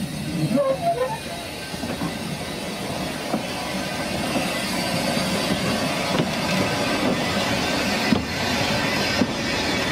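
Narrow-gauge railway train running on the track: a steady rumble with a few sharp clicks from the wheels over the rail joints.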